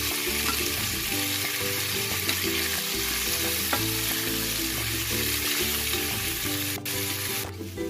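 Snake beans sizzling in hot olive oil in a non-stick pan while being stirred with a wooden spatula, with a few light clicks of the spatula. The sizzle dips briefly near the end.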